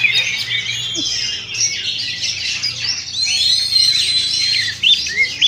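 A chorus of many oriental magpie-robins (kacer) singing at once: dense overlapping whistles, chirps and trills with no pause.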